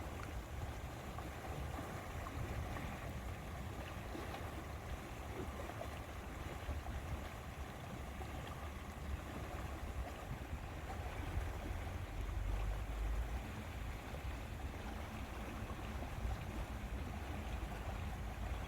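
Steady lakeside ambience: lapping water, with wind rumbling on the microphone that swells about two-thirds of the way through.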